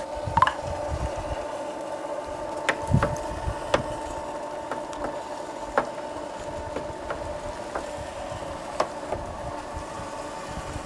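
Homemade electric pipe and profile bender running, its motor drive giving a steady hum with a constant whine, with scattered sharp clicks throughout.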